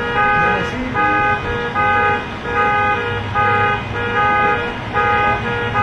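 Car alarm going off: a car horn honks again and again in a steady on-off rhythm, a little more than once a second, over a low rumble.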